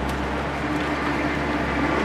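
Corvette C6's V8 engine pulling steadily at track speed, mixed with wind and road noise.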